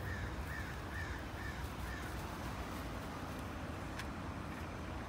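A bird calling in a quick run of short, arched calls, about two a second, that stop about two seconds in, over a steady low outdoor rumble; a single sharp click sounds near the end.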